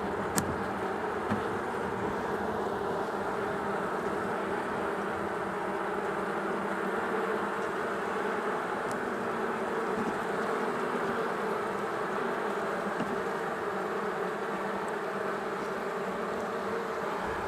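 Honey bees buzzing in a steady, dense hum around an opened hive during an inspection, with a couple of light clicks about a second in.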